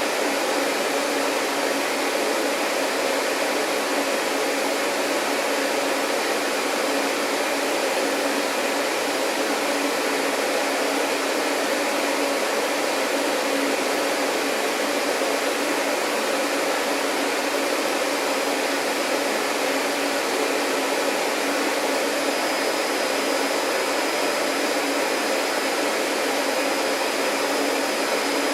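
Vacuum cleaner running steadily: an even, unbroken motor-and-airflow noise with a steady hum. A thin high whine joins about three-quarters of the way through.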